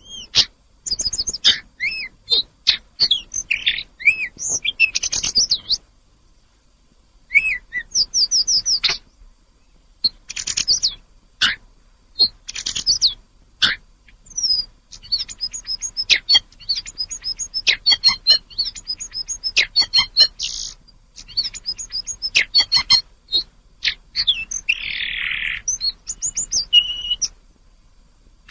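Tledekan gunung (Sunda robin) singing a fast, varied song of chirps, sweeping whistles and trills in quick bursts, with a short pause about six seconds in and a harsh raspy note near the end.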